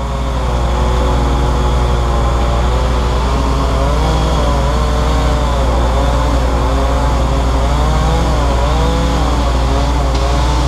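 A large engine running steadily with a deep, constant hum, its higher tones rising and falling slightly as the revs change.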